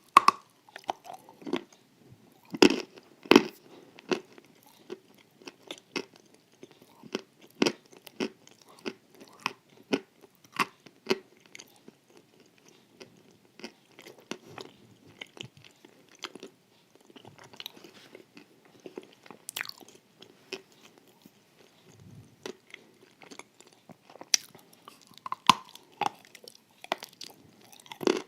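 A person biting and chewing a crisp wafer with a candy, with many irregular crunches and crackles; the loudest two bites come about three seconds in.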